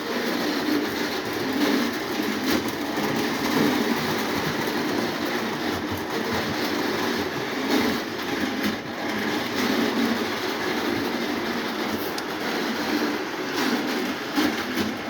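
Lionel O27 electric toy trains running on the track: a steady whir and rumble of motors and wheels on the rails, with occasional light clicks.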